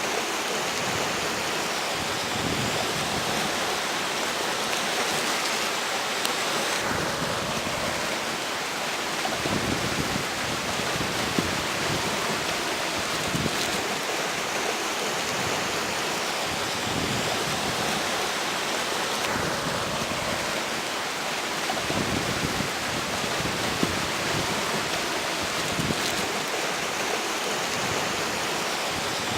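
Steady rush of a flowing river mixed with strong gusting wind. The wind swells a couple of times and buffets the microphone with low rumbles.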